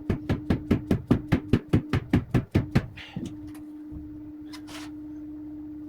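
Quick run of hammer taps, about five a second for roughly three seconds, driving a plastic tool to work a car windscreen's rubber seal into place, then stopping.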